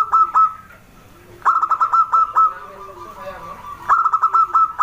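Zebra dove (perkutut) singing: quick runs of staccato cooing notes. A run ends just after the start, a full run follows about a second and a half in, and another comes near the end.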